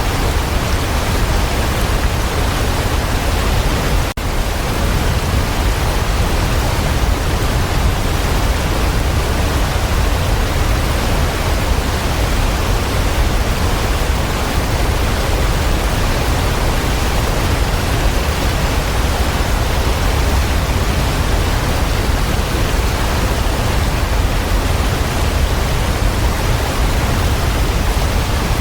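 Waterfall: a steady, dense rush of falling water, heaviest in the low end, with a momentary drop in level about four seconds in.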